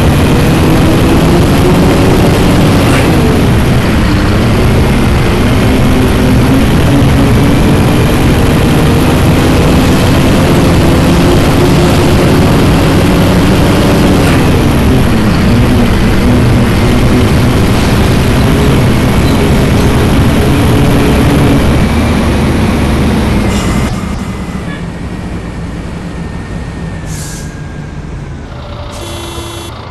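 Scania-chassis Marcopolo Torino city bus's diesel engine pulling hard. Its pitch climbs and drops back twice, as at gear changes, then holds steady and eases off to a much lower level about three-quarters of the way through.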